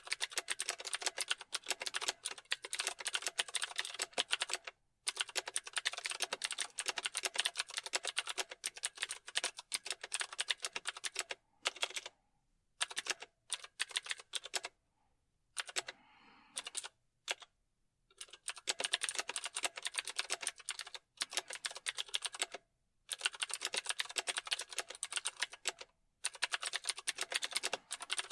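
Typing on a computer keyboard: fast runs of key clicks, broken by brief pauses, with a stretch of scattered strokes and short stops about halfway through.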